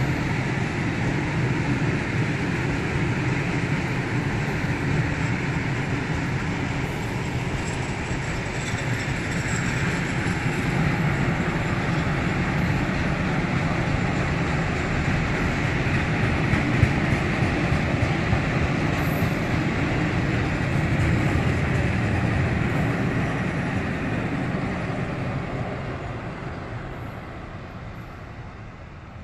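Freight train of open-top wagons rolling past, a steady rumble of wheels on the rails that fades over the last few seconds as the end of the train moves away.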